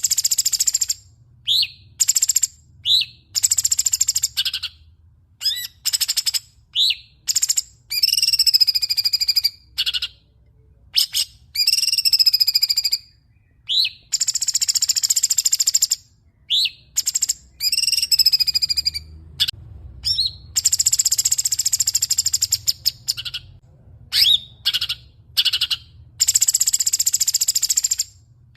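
Songbird singing loudly in repeated high-pitched phrases of a second or two: some are rapid chattering rattles, others wavering warbled notes. Short sharp chirps and brief pauses fall between them.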